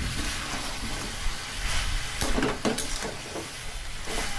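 Chicken pieces in spice paste sizzling in oil in a kadai while being slow-fried (kosha) on a low gas flame. A spatula scrapes and knocks against the pan a few times as the meat is stirred.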